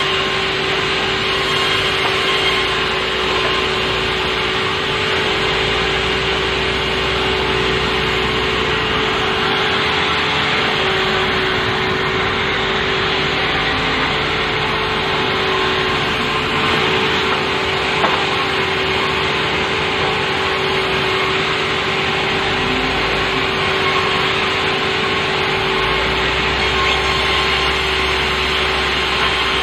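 Sawmill running and sawing softwood: a steady, loud, dense noise with a constant hum underneath.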